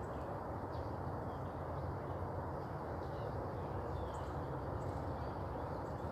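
Steady outdoor background rumble with a few faint, short bird chirps, some of them quick falling notes.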